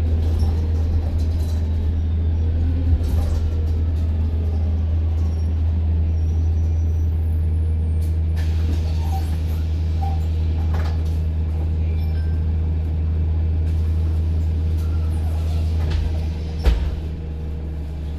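Inside a moving London bus: the engine and running gear give a steady low drone. Near the end the drone eases off, with a single thump.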